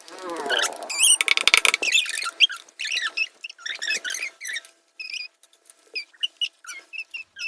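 Sticky homemade glue slime being stirred and squished as activator is worked into it: a run of wet squelches and small squeaks, thickest about a second in.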